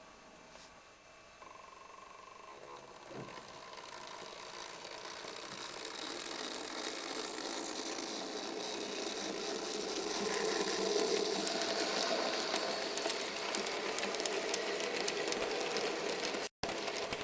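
Märklin mini-club Z-scale model train running on the layout: the tiny electric motor whirs and the wheels click over the track, growing steadily louder as it comes close. The sound cuts out abruptly twice near the end.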